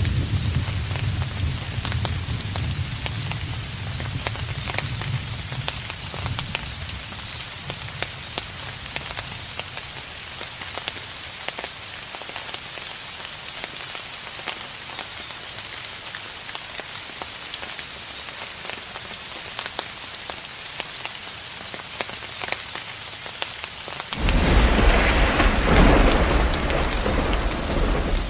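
Steady rain with many small drop ticks, under a rumble of distant thunder that dies away over the first few seconds. About 24 seconds in, a sudden, louder peal of thunder breaks and rolls on to the end.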